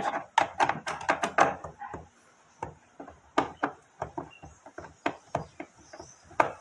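Irregular metallic clicks and taps of an 8 mm socket on a homemade L-shaped rod, working the bolts out of a washing machine's sheet-metal motor platform. The clicks come thick in the first second or so, then sparser.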